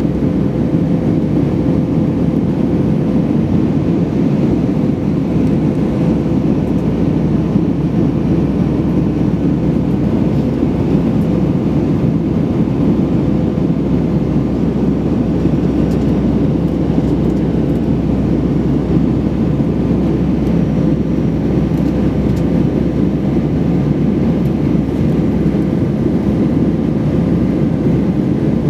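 Steady engine and airflow noise inside the cabin of an Airbus A320-232 with IAE V2500 turbofans: an even, unbroken rumble with a faint steady hum running through it.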